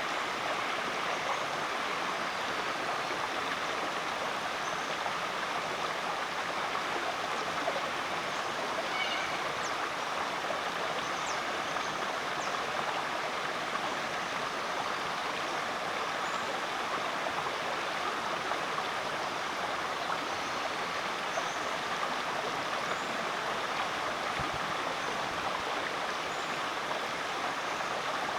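Mudgeeraba Creek, a rainforest creek, flowing with a steady, even rush of water.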